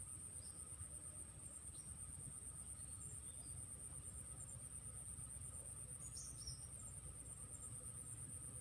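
Steady, high-pitched chorus of insects trilling, with a few brief faint chirps about six seconds in.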